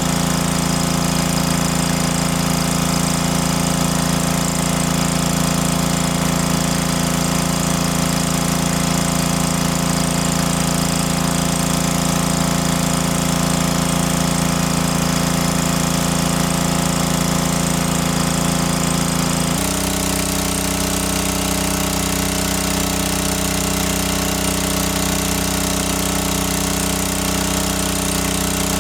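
Small boat engine running steadily with a rapid knocking beat; its note changes suddenly about twenty seconds in.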